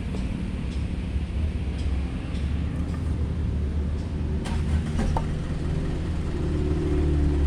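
Truck engine running steadily with a low hum, a few sharp knocks about halfway through, and a little louder near the end.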